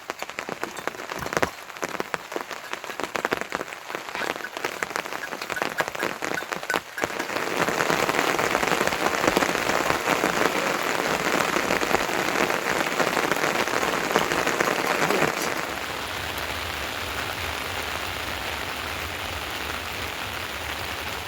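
Rain falling, first as a patter of separate drops, then becoming louder and denser about seven seconds in, and settling into a steadier, softer hiss a little past halfway.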